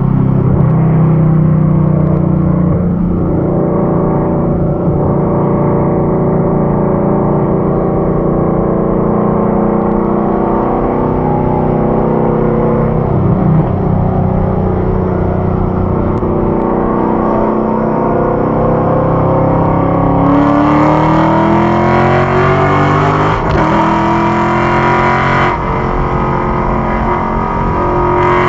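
2015 Ford Mustang GT's 5.0-litre V8 heard from inside the cabin, running steadily at about 50 mph with tyre and road noise, then pulling hard as the car accelerates toward 90 mph, its pitch climbing over the last several seconds.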